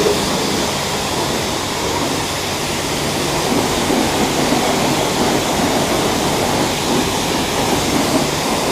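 High-pressure wash wand spraying water at a self-serve car wash, a steady hiss of spray against a motorcycle.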